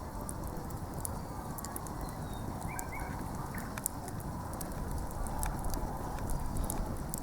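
Wood fire crackling, with scattered sharp pops over a steady low rustle.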